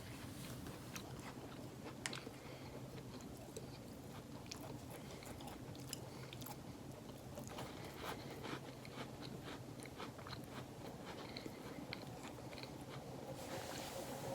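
Faint chewing and small crunches of a cream-filled biscuit being eaten, scattered clicks over a low steady hum. A rustle starts near the end.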